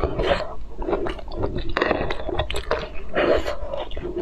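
Close-miked chewing of a soft, squishy mouthful: wet smacks and quick irregular clicks.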